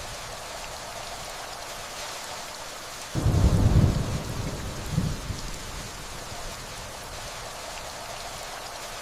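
Steady gentle rainfall, with a low rumble of distant thunder starting suddenly about three seconds in, swelling again a second later and dying away over the next few seconds.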